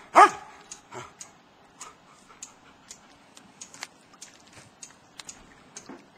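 A dog barking: one loud bark right at the start, a softer yelp about a second in, then faint scattered short ticks.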